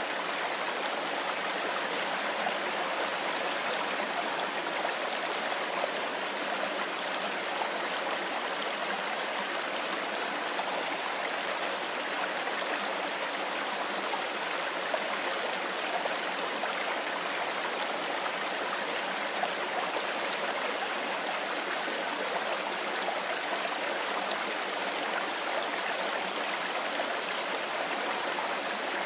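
Mountain stream running over rocks: a steady, even rush of water with a splashing, babbling texture.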